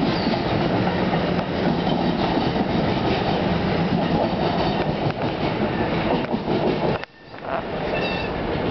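NJ Transit multilevel commuter coaches rolling past at close range as the train departs, steel wheels clattering steadily on the rails. About seven seconds in the sound drops off sharply, then a fainter rumble of the receding train continues.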